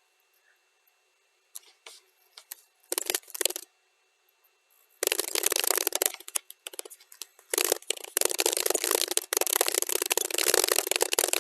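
Computer keyboard typing, played at double speed. A few scattered keystrokes come first; from about five seconds in there is a fast, almost continuous run of key clicks broken by short pauses.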